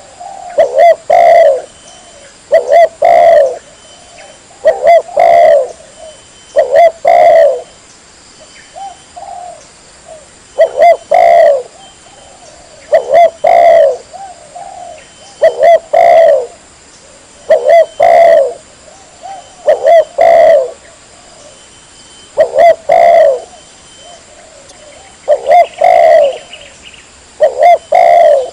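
Spotted dove (tekukur) cooing its song over and over, loud and close, in phrases of two or three coos about every two seconds.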